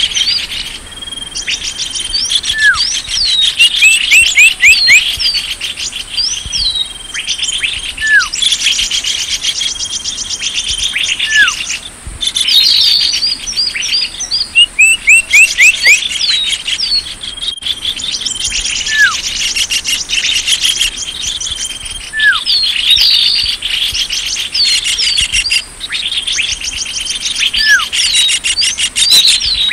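Recorded lure call for small birds: many small birds chirping and trilling together, with short falling whistles and rapid trills in a sequence that recurs every several seconds.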